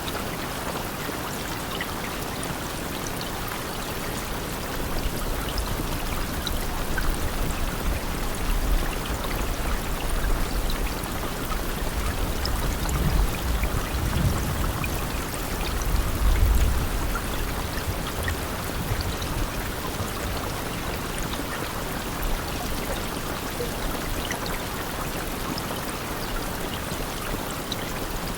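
Steady rain falling, an even hiss with fine patter of drops. A deep low rumble swells and fades through the middle stretch, loudest a little past halfway.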